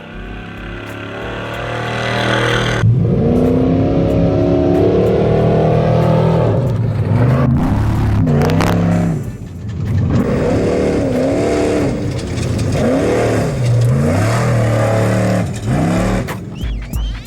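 Off-road race truck engine revving hard and accelerating away, its pitch climbing sharply about three seconds in. It then rises and falls again and again as the throttle is worked.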